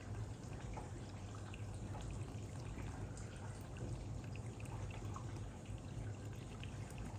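Steady low trickling or pouring of water, with faint scattered small ticks.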